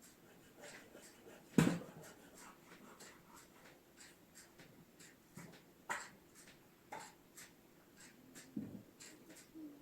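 Firewood being split with an axe, the logs held in an old tyre: one sharp chop about a second and a half in, then lighter knocks of wood and scattered small clicks.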